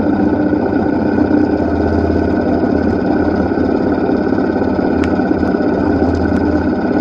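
Engine running steadily with a fast, even pulsing, the sound heavily distorted.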